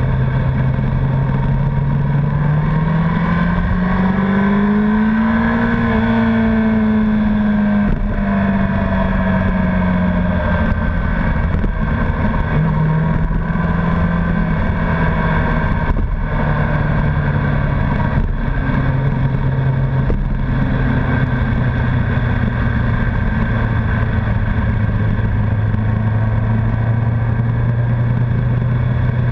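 Honda CBR1100XX Blackbird's inline-four engine under way on the road. The revs climb for the first several seconds, peak about six seconds in, then ease back and hold a steady cruise.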